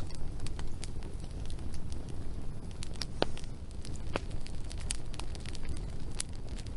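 Wood fire crackling, with scattered sharp pops over a low steady rumble; the loudest pop comes about three seconds in.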